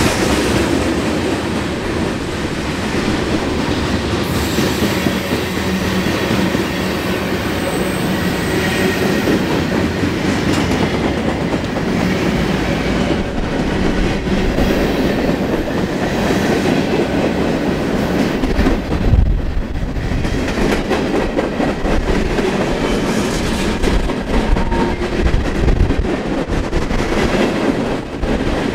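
Freight train cars rolling past on a curve: a steady rumble of steel wheels over the rail joints, with a few heavier low thumps in the second half.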